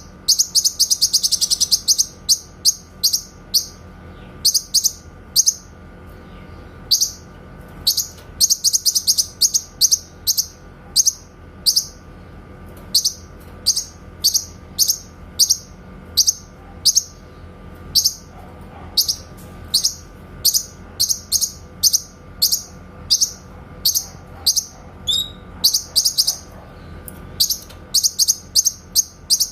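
Cucak kinoy song with its 'tembakan' (shooting) phrases: sharp, high chirps repeated over and over, some single and some in fast rattling runs. The densest runs come about a second in and again around eight to ten seconds. A faint steady hum lies underneath.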